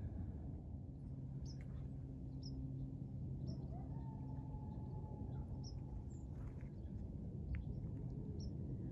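A bird calling in short, high chirps, repeated about once a second with some gaps, over a steady low background rumble.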